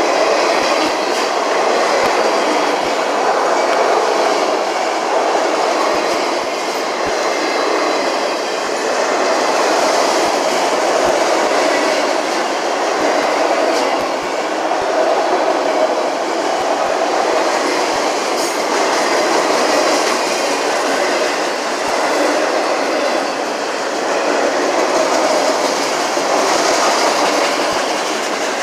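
Freight train cars rolling past at close range: a steady rumble of steel wheels on rail with scattered clicks and knocks from the wheels crossing rail joints.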